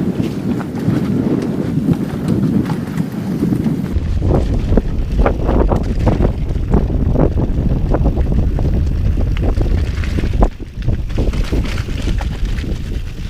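Mountain bike riding over rough trail, heard from a camera on the rider: wind rushing over the microphone with tyre noise and repeated knocks and rattles of the bike over bumps. The wind rumble gets much heavier about four seconds in.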